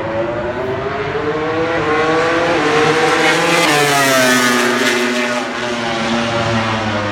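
MotoGP race motorcycle engine rising in pitch as it accelerates toward the listener, then passing by about four seconds in with a sharp drop in pitch, and running on lower as it moves away.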